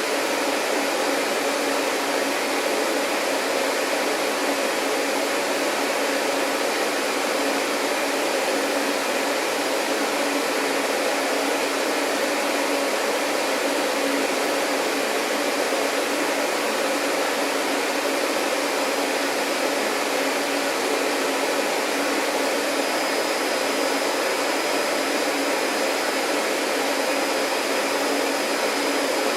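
Vacuum cleaner running steadily: an even, unbroken rushing noise over a low steady hum. A faint thin high whine comes in about two thirds of the way through.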